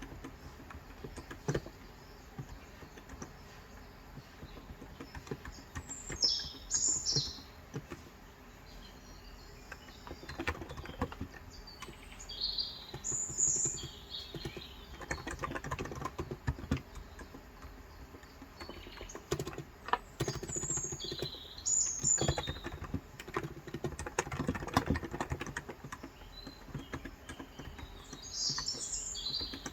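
Typing in short bursts on a Cox Endeavor tenkeyless keyboard with 35 g electrostatic-capacitive (Topre-style) switches, soft muted key strokes. Birds chirp several times in the background.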